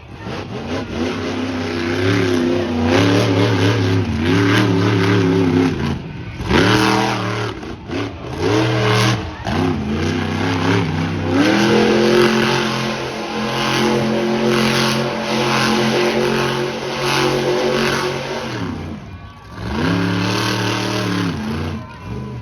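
Monster truck engine revving hard, its pitch climbing, holding and dropping again and again, with brief let-offs about six seconds in and again near the end.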